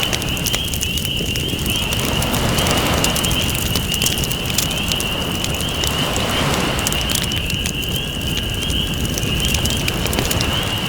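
Campfire crackling with frequent sharp pops over ocean waves washing in and out, the surf swelling about every three to four seconds. A steady, wavering high-pitched trill sits over the mix.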